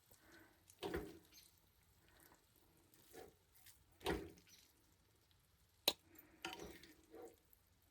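A utensil scooping and scraping cooked rice out of a pot, in a few short separate scrapes, with one sharp clink about six seconds in.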